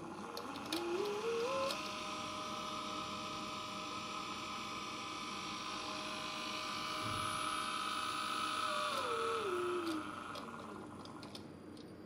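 Servomotor running in a function test after repair. Its whine rises in small steps to speed over about two seconds, holds steady for several seconds, then steps back down as it slows near the end.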